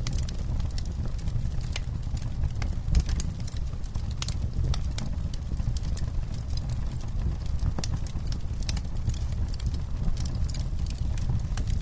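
Wood campfire crackling: irregular sharp pops and snaps, some louder than others, over a steady low rumble of the burning fire.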